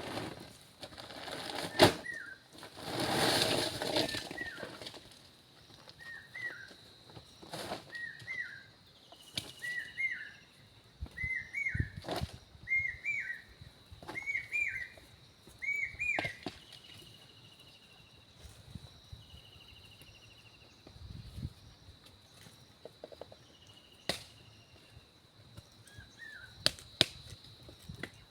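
A bird calling in a run of short rising-and-falling chirps that come faster and faster and then stop about halfway through, over a steady high-pitched tone. A brief rush of noise sounds about three seconds in, and a few sharp knocks are scattered through.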